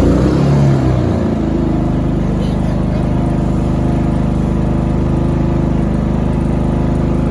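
Generac iQ3500 inverter generator just after a pull start, set to run mode rather than economy and with no load: the engine is uneven for about the first second and a half, then settles into a steady run.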